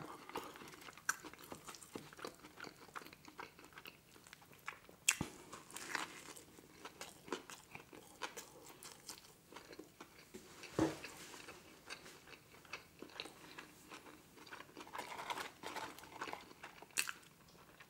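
Faint, close-miked chewing and wet mouth sounds of a man eating a burger and fries, with lip smacks and finger licking. Soft clicks are scattered throughout, with a few sharper ones about 5, 11 and 17 seconds in.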